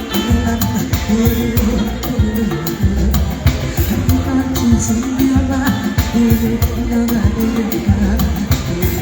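Live band playing music with a sung melody over a strong bass and a steady drum beat.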